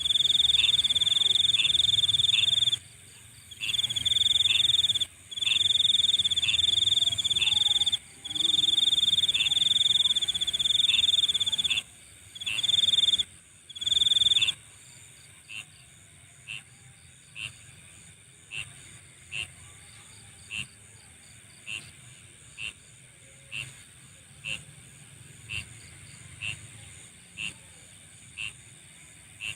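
Night chorus of calling insects. A loud, high-pitched trill comes in long bouts of two to three seconds with short breaks, and stops about halfway through. Under it a short high chirp repeats about once a second and carries on alone after the trill ends.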